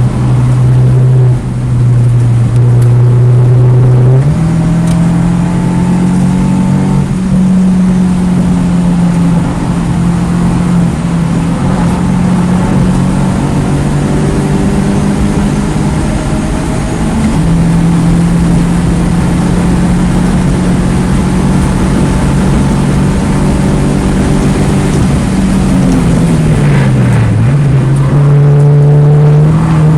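A 2009 Mini Cooper S's turbocharged four-cylinder engine running hard on a race track. Its note steps up about four seconds in, holds for a long stretch, then drops sharply for a second or two near the end before climbing again.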